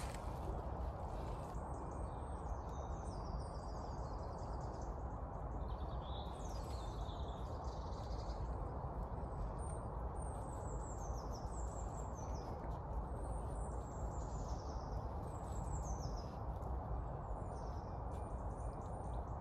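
Small birds calling in the woods: many short, high, thin chirps that slide downward, repeated from about a second and a half in until near the end, over a steady low background rumble.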